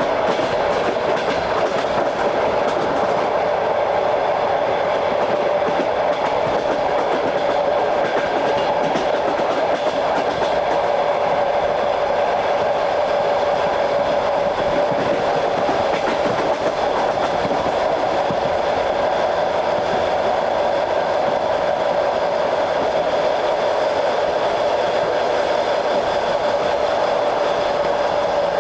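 Train running steadily along the track, heard aboard: continuous rolling noise of wheels on rail with a steady hum and the clatter of the wheels.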